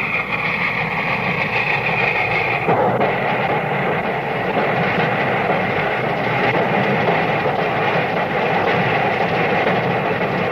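A steam locomotive and its train running, a dense steady rumble from an old film soundtrack, with a high steady tone that stops about three seconds in.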